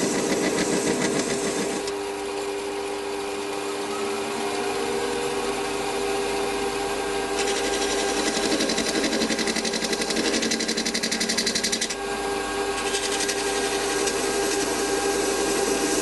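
Small metal lathe running steadily while a hand scraper is held against the spinning chimney workpiece, the tool chattering with a fast, even rattle at the start and again for several seconds from about the middle.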